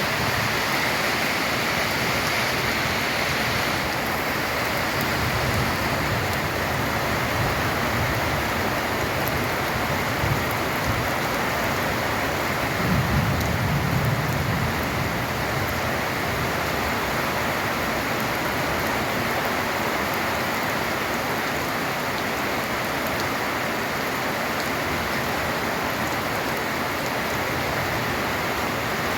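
Steady heavy rain drumming on a corrugated tin roof, with a short low rumble about thirteen seconds in.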